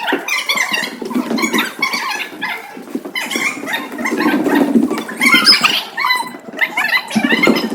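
Young children's high voices chattering and calling out over one another, with no single speaker standing out.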